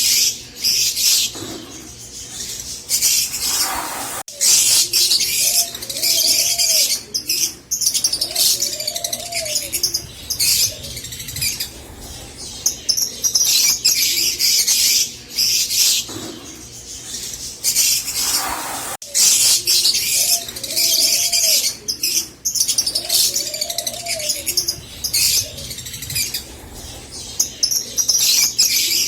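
Rosy-faced lovebirds chattering in dense, high-pitched chirps that come in bursts of a second or two, with a few softer, lower arched calls between them. The same stretch of calls repeats about halfway through.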